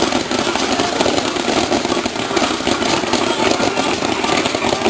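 Fireworks crackling in a dense, steady stream of small rapid pops.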